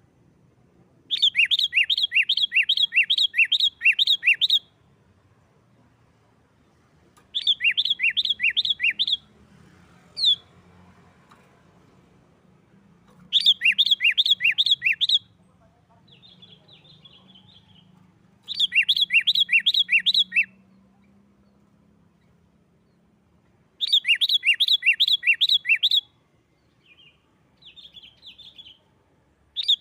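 Sooty-headed bulbul (kutilang) singing in the loud, insistent 'gacor nggaruda' style: five bursts of rapid, evenly spaced sharp chirps, about three a second, each burst lasting two to three seconds. Softer twittering and a single sharp note come between the bursts.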